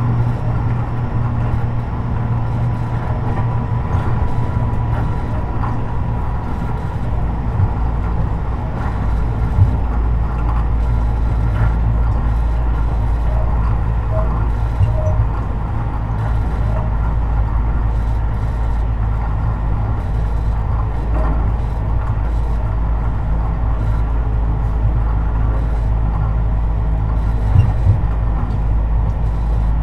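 Tobu 50090 series electric train running between stations, heard from under the car floor: a steady low rumble of wheels on rail that deepens about nine seconds in, with a few sharp knocks around ten seconds in and near the end.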